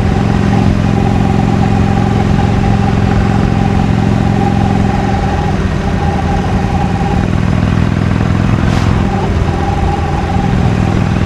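Harley-Davidson Iron 883's air-cooled V-twin engine running steadily through its stock exhaust while the bike is ridden, with slight shifts in engine pitch partway through.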